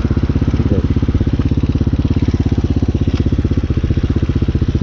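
Hawk 250 motorcycle's single-cylinder engine running at a steady pace while riding, a rapid, even beat of exhaust pulses that neither rises nor falls.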